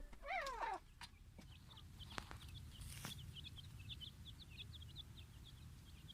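Gray francolin calling once in the first second, a quick run of falling notes. After that there is only faint, rapid high chirping and a few soft clicks.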